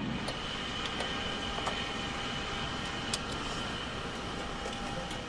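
Steady aircraft engine drone with a thin, steady high whine over it and a few faint clicks.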